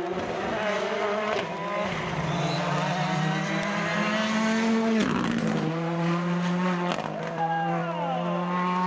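Rally car engine running hard at high revs, its pitch dropping at gear changes about two and five seconds in.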